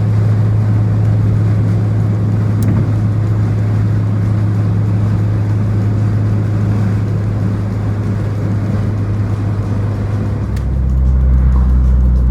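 Car engine running at a steady speed with a deep, even hum, dropping to a lower, deeper note about ten and a half seconds in as the revs come down.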